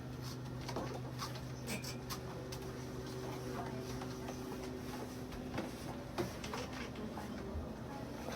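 A steady low electrical hum with scattered light taps and clicks of objects being handled.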